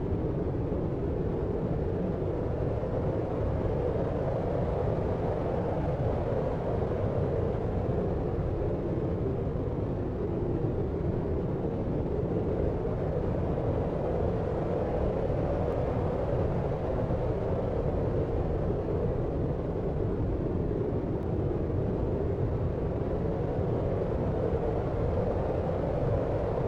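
Deep noise sleep track: a steady low rumbling hiss, even throughout, with no distinct events.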